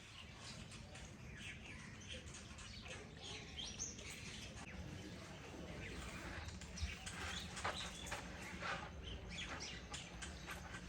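Small birds chirping, many short high calls overlapping, over a steady low hum.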